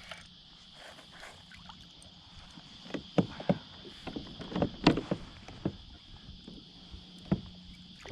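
Scattered sharp knocks and taps around a kayak while a hooked flathead is played up to the boat. The knocks cluster from about three seconds in, with the loudest just before five seconds, over a faint steady high-pitched tone.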